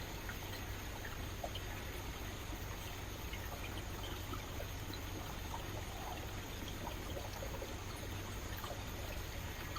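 Rainforest river flowing steadily, its water trickling and splashing in an even rush with tiny scattered splashes.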